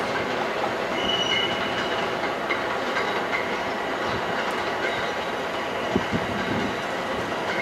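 Train passing on steel rails: a steady rattle and clatter, with short high wheel squeals now and then.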